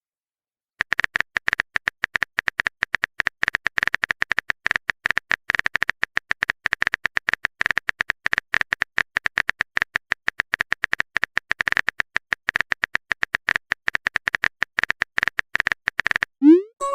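Keyboard-typing sound effect: a fast, uneven run of small clicks, many a second, lasting about fifteen seconds, as a chat message is typed out. Just before the end a short rising swoosh tone sounds, louder than the typing.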